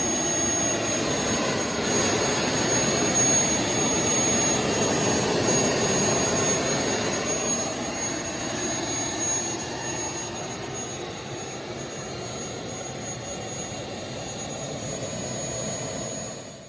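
Boeing T50 gas turbine engine running in a street rail, a dense roar with a steady high-pitched whine over it. It gets quieter in the second half and cuts off at the very end.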